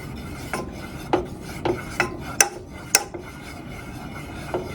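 A spoon scraping around the bottom of a pot while stirring melting butter, with sharp clinks of the spoon against the pot every half second or so.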